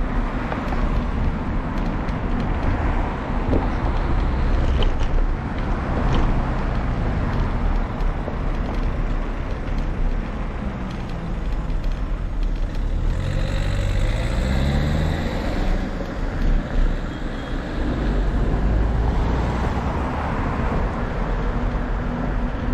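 Road traffic going by with wind noise on the microphone; a motor vehicle's engine note rises as it passes about 13 seconds in.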